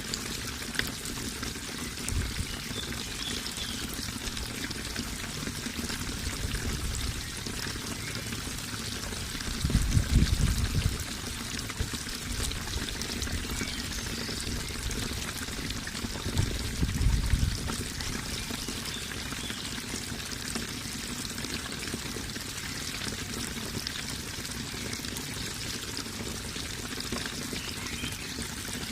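Running water flowing and splashing steadily. Two brief low rumbles come through about ten seconds in and again about seven seconds later.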